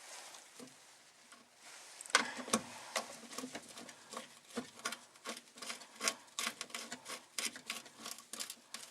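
Quick, irregular small metal clicks and rubbing from a hand tool as small screws are driven in one after another, starting about two seconds in.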